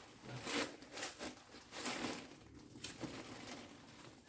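Irregular rustling and scuffing handling noises, a string of short bursts spread through the first three seconds.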